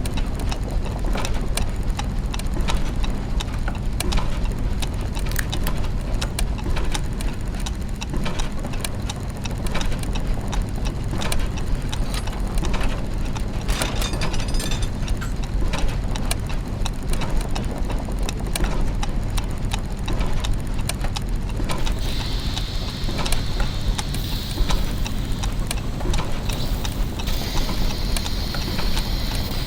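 Clockwork gears and mechanisms: many irregular ticks and clicks over a steady low mechanical hum. About two-thirds of the way through, a higher whirring joins in, twice.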